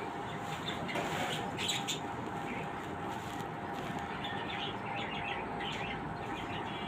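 Small birds chirping in short scattered bursts over a steady background hum.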